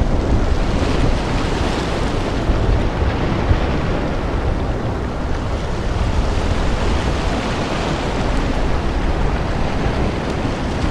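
Thunderstorm ambience: a loud, steady rushing of wind and storm noise, with no distinct claps.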